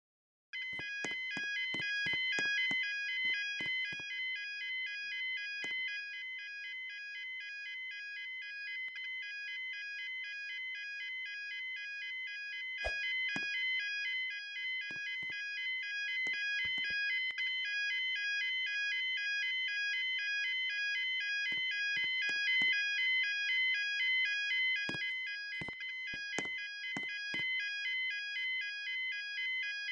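Level crossing warning alarm starting about half a second in and sounding continuously: an electronic tone rapidly alternating between two pitches, with sharp clicks now and then.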